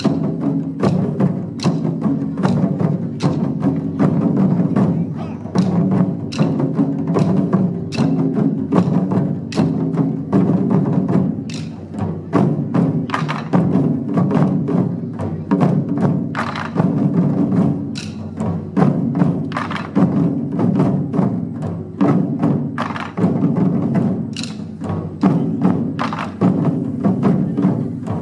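Japanese taiko drum ensemble playing, a dense, driving stream of drum strikes with a deep, booming low end and no pause.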